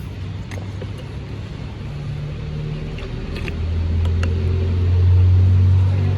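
A low, steady engine rumble that grows louder from about three and a half seconds in, with a few faint clicks over it.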